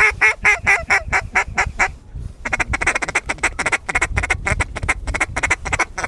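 A duck call blown by a hunter to work an incoming flock: a fast run of short, regular quacks, a brief pause about two seconds in, then a longer and quicker run of quacks.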